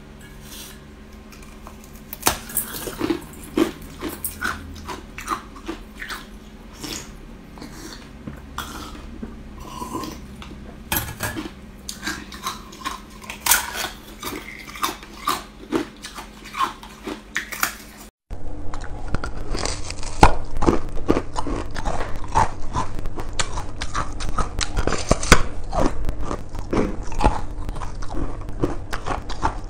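A person biting and chewing ice close to the microphone: sharp, irregular crunches and cracks. About eighteen seconds in, it cuts to a louder, denser run of chewing crunches.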